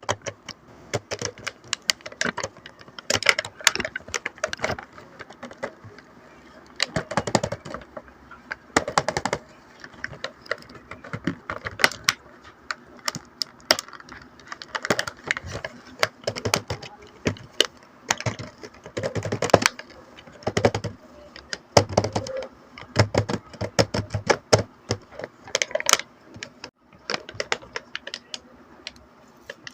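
A toy fashion kit being unboxed and handled by hand: irregular sharp clicks and taps of small plastic pieces and packaging, with a few short bursts of rustling.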